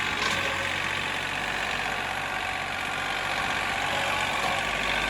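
John Deere 3038E compact tractor's diesel engine running steadily above idle as the tractor drives forward in high range.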